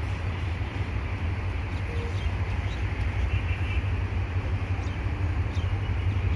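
Diesel-hauled container freight train running through a station without stopping: a steady, loud rumble and rolling noise from the train passing.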